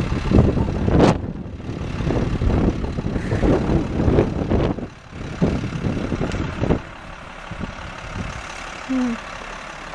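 Heavy tow truck engine running with irregular surges as it tries to pull free of deep snow, settling to a lower rumble about seven seconds in.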